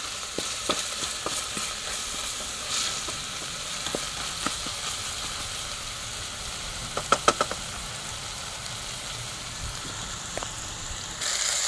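Onions and ginger frying in oil in a metal pot: a steady sizzle broken by scattered clicks of a spoon stirring against the pot, with a quick run of four sharp clicks about seven seconds in. The sizzle grows louder near the end.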